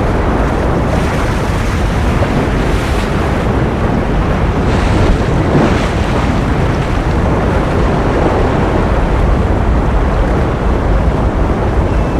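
Ocean surf as a steady, dense wash of waves, with a brief brighter surge of hiss about five to six seconds in.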